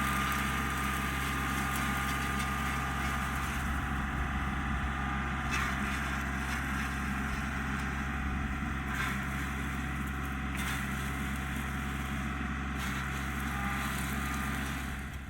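An engine running steadily at an even speed, with a few sharp cracks over it.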